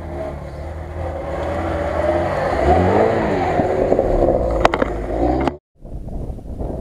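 Lada Niva's engine pulling the car through a rough grassy field, the revs rising and falling as it passes close by, with a couple of sharp knocks. The sound cuts off abruptly about five and a half seconds in.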